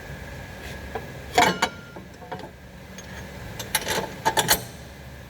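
Hand tools clicking and knocking on car parts during suspension work: a short group of sharp clicks about a second and a half in, and a denser run of clicks near the end, over a steady low hum.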